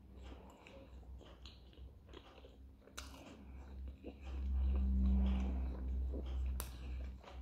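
Close-up chewing of a pljeskavica, a grilled minced-meat patty in bread: wet mouth clicks and small crunches, with two sharp crunches about three seconds and six and a half seconds in. A low rumble from about four to seven seconds in is the loudest part.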